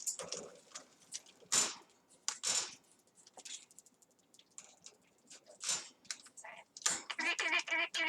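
Yellow-crowned amazon parrot vocalising: a few short, harsh, scratchy squawks spaced out, then a quick run of pulsed, speech-like babbling near the end.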